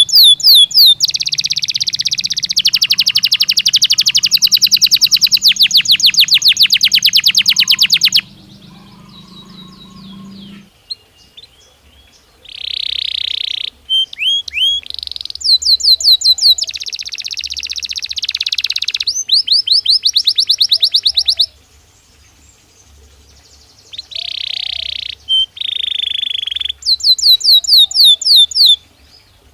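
Belgian canary singing: loud phrases of rapid, repeated falling notes and fast trills, broken by short pauses.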